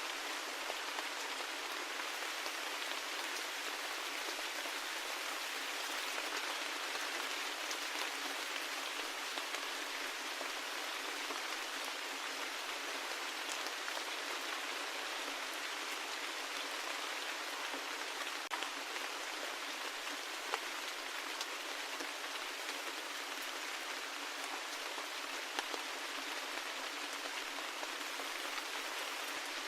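Steady rain falling, an even hiss of many drops with no low rumble, and now and then a single sharper drop ticking out, a few times in the second half.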